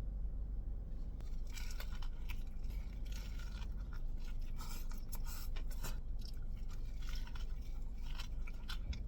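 Close-up chewing of a Korean fried chicken sandwich: irregular crisp crunches of the fried coating, starting about a second and a half in.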